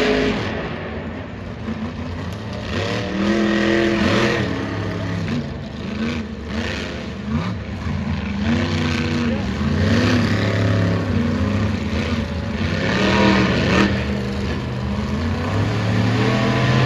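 Monster truck engines revving hard, their pitch surging up and falling back over and over as the drivers work the throttle through a race. These are supercharged, alcohol-fuelled engines of about 1,500 horsepower.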